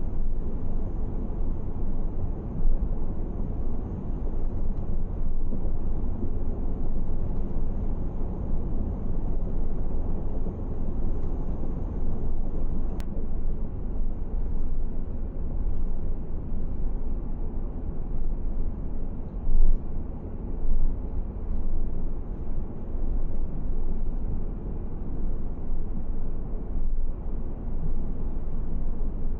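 Steady low rumble of a car driving along the road: engine and tyre noise with no clear changes.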